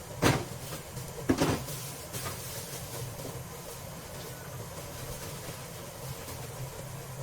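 Two sharp knocks of kitchen handling at the stove, the second about a second after the first, over a steady low hum.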